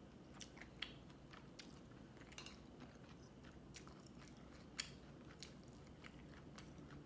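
A person chewing food quietly, with scattered faint crunches and mouth clicks.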